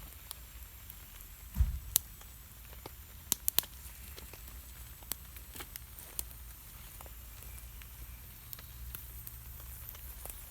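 Campfire of wet wood crackling, with scattered sharp pops. There is a single low thump about one and a half seconds in.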